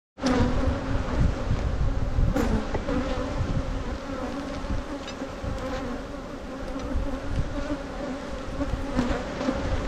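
Many honeybees buzzing in a steady, dense hum around an open hive, with a couple of sharp knocks, one about two seconds in and one near the end.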